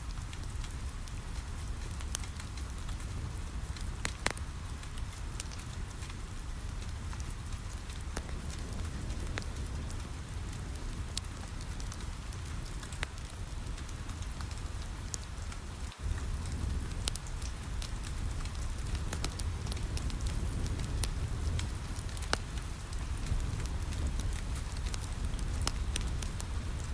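Steady rain on a window with a low rumble, mixed with a wood fire in a fireplace crackling in scattered sharp pops. The sound dips out for an instant about halfway through.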